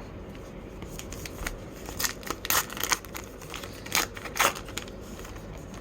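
A trading card pack's foil wrapper being torn open and crinkled, with the cards handled, in a series of short, sharp crackling bursts, the loudest about two to three seconds in and again around four seconds in.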